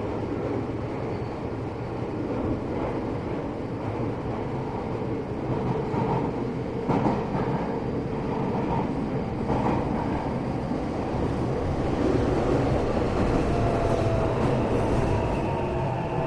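Tokyo Metro 8000 series electric train heard from inside a car while running: a steady rumble of wheels on rail with a few brief knocks in the middle. Faint tones rise and grow a little louder near the end.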